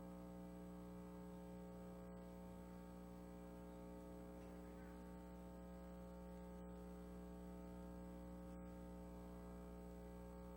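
Near silence with a steady electrical hum and buzz from the sound system, unchanging throughout.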